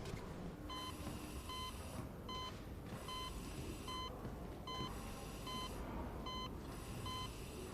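Hospital monitor alarm beeping in short, evenly spaced electronic tones, a little more than one beep a second, starting about a second in, over a low background hum.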